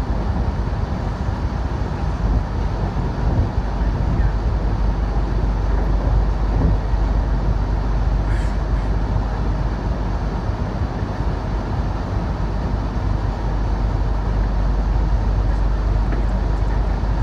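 Steady rumble of a CRH6A electric multiple unit running along the line, heard inside the passenger car.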